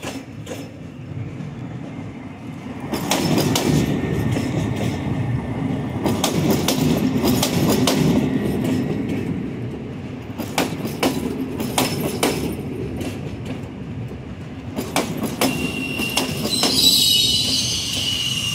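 PKP Intercity Pendolino (ED250) electric multiple unit rolling slowly past close by: a steady rumble with wheels clicking over rail joints, and a high wheel squeal starting a few seconds before the end.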